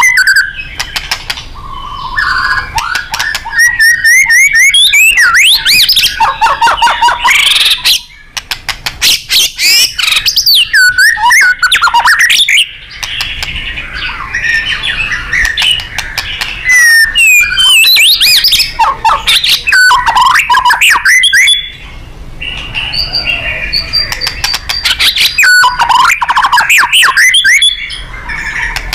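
White-rumped shama (murai batu) singing loudly in fast, varied phrases of sweeping whistles and rapid trills, broken by harsh chattering rattles. This is the bird in full, aggressive 'nembak' song.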